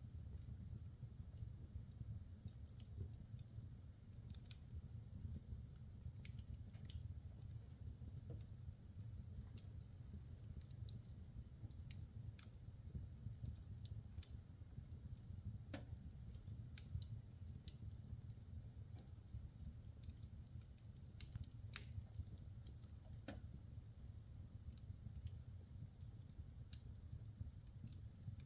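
Logs burning in a wood fireplace: faint, irregular crackles and pops scattered throughout, over a steady low rumble.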